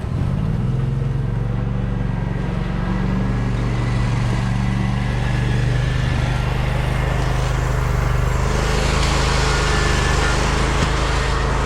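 An engine starts up and runs steadily at a constant speed. A hissing noise grows louder over it from about eight seconds in.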